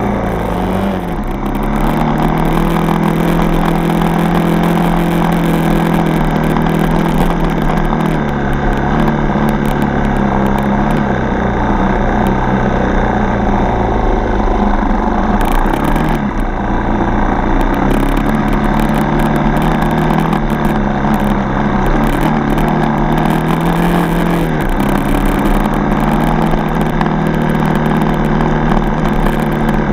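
Yamaha TT-R 230 dirt bike's single-cylinder four-stroke engine running steadily under way. Its pitch dips briefly and comes back up about a second in, again near halfway, and once more later on.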